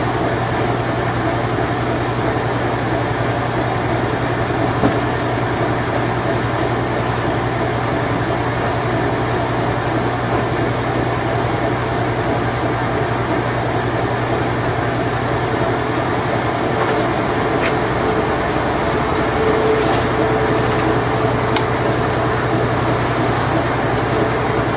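Late-1980s Whirlpool Imperial Clean Touch washing machine running steadily: a constant low motor hum under an even whirring rush. A faint higher tone and a few light ticks come in during the last third.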